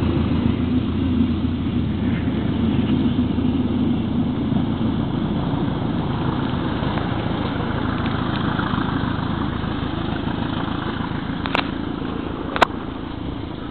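Diesel engine of a Northern Ireland Railways 450 class diesel-electric multiple unit pulling away from a station, a steady drone slowly fading as it leaves; the engine is running smoky ('claggy'). Two sharp clicks near the end.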